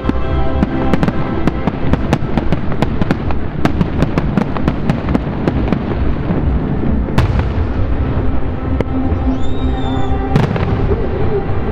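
Fireworks bursting in rapid succession, many sharp bangs and crackles, densest over the first half, with a couple of single loud bangs later, over show music played loud.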